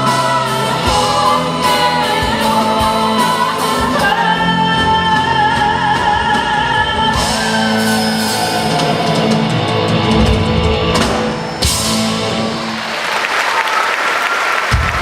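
Live band and female singer ending a song with long held notes. The music cuts off after about eleven and a half seconds, and audience applause follows over the last two seconds.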